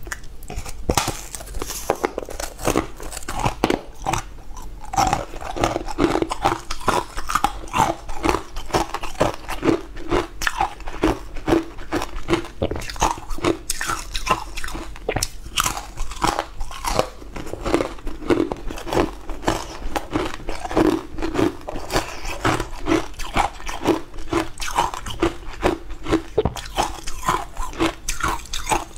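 A person biting and chewing a crunchy, green powder-coated star-shaped block, with rapid, continuous crunches close to the microphone.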